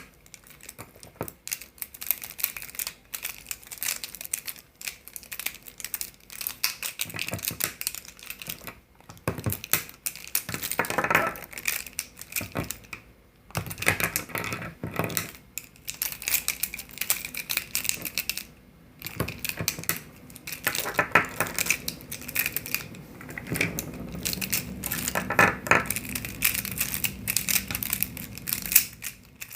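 Plastic gel pens being handled, with a long run of irregular clicks and rattles broken by a few short pauses.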